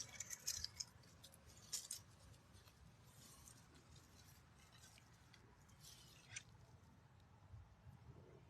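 Near silence, broken by a few faint, sharp scratchy clicks and rustles in the first two seconds and once more about six seconds in.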